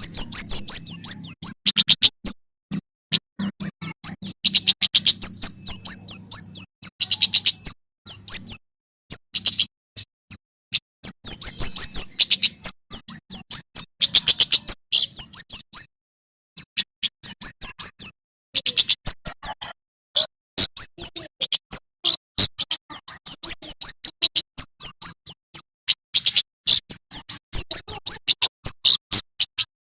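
Male prenjak keres (kemade) singing: rapid strings of sharp, high chirps in bouts, broken by short pauses.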